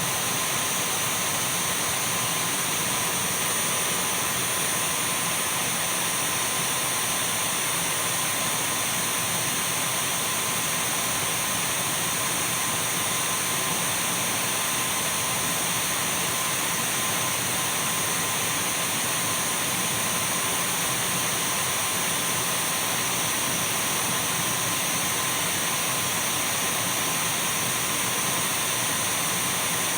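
Dyson V12 cordless stick vacuum cleaner running steadily: an even rush of air with a constant high-pitched motor whine, not changing in speed or level.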